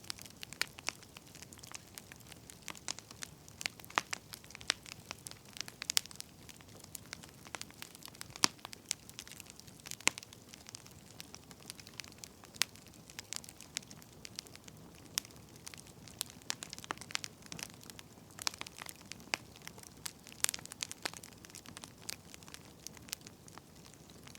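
Wood fire crackling: irregular sharp pops and snaps over a soft, low hiss of burning logs.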